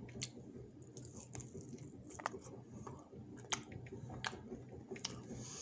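A person chewing a mouthful of battered lemon chicken: soft, low chewing sounds with a few scattered sharp mouth clicks.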